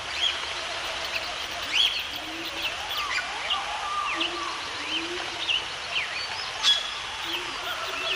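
Several wild birds chirping and calling, with many short quick chirps and a few lower calls, over a steady background hiss. A single sharp click comes about two-thirds of the way in.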